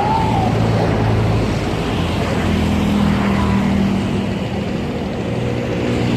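Boat engine running steadily, its note shifting about two seconds in, over a wash of wind and water noise.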